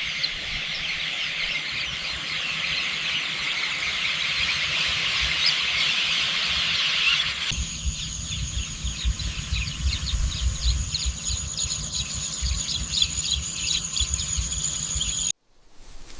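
Rice-field ambience: a dense chorus of many birds chirping at once. About halfway in it cuts to a steady high insect drone with scattered chirps over it and wind rumbling on the microphone. It cuts off suddenly near the end.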